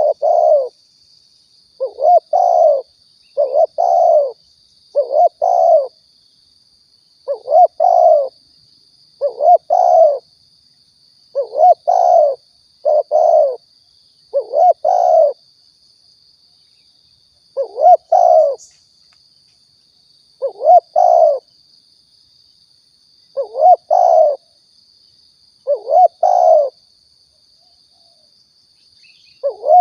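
Spotted dove (tekukur) song, a recorded lure call: low cooing notes in groups of two or three, repeated about every two seconds.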